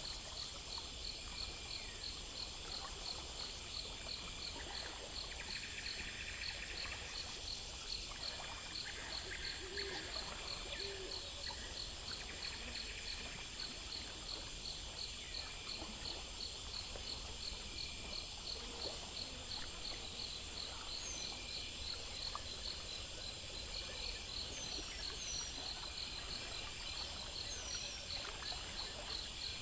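Night insects, crickets among them, chirping steadily: a fast, even pulsing trill with higher repeated chirps above it, over a low steady background hum.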